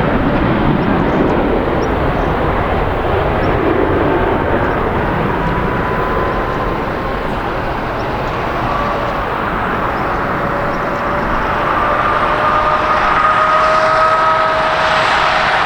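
Jet airliner engines running loudly: a steady rushing roar with faint whining tones that rise slowly in pitch in the second half.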